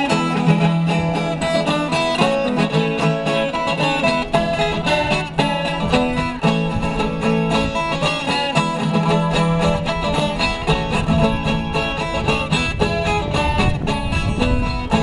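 Caipira folk music played on plucked acoustic strings, viola and guitar, in a continuous instrumental passage.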